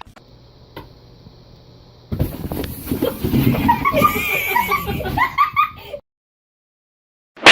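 Giggling laughter that starts about two seconds in, choppy with short rising and falling notes, and cuts off suddenly near the end.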